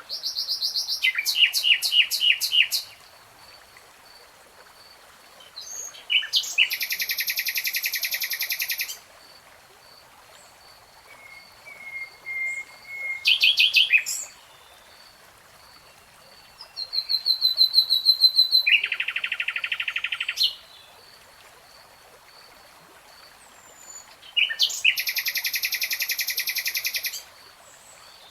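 A songbird singing in five separate phrases of rapid, high-pitched trilled notes, each lasting two to three seconds, with pauses between them over a faint steady hiss.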